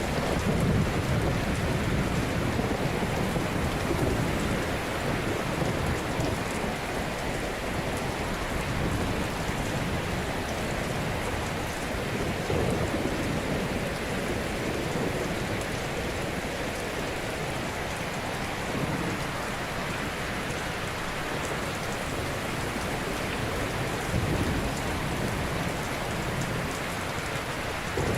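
Ocean surf: waves breaking and washing ashore in a continuous rumbling wash, swelling at uneven intervals of several seconds.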